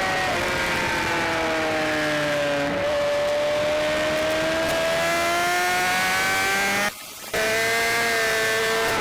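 BMW S1000RR sport bike's inline-four engine at race speed, heard onboard over wind rush: the engine note falls, steps with gear changes, then climbs steadily under acceleration. About seven seconds in, the sound drops out for a split second before coming back.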